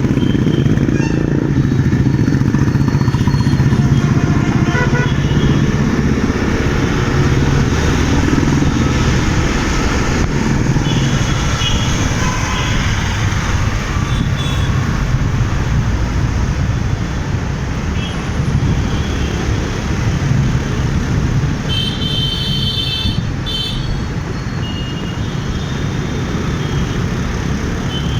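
Riding a motorcycle through busy city traffic: a steady low rumble of engine and road noise, with other vehicles' horns honking several times, most clearly about three quarters of the way through.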